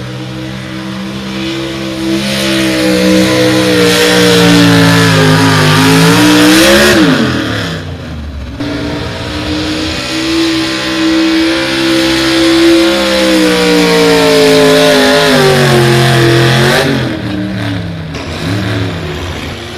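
Super stock two-wheel-drive pulling truck's engine at full throttle, its pitch slowly sagging and then dropping off sharply about seven seconds in. It comes back up to high revs and runs hard again, sagging and falling away near the end.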